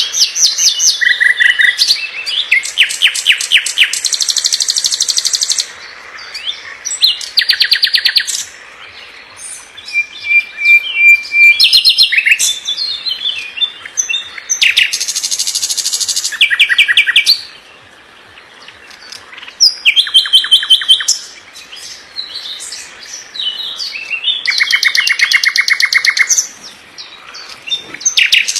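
Songbird singing a fast, dense song of rapid trills and chattering phrases, each burst a second or two long with short gaps between, some held on a single high pitch.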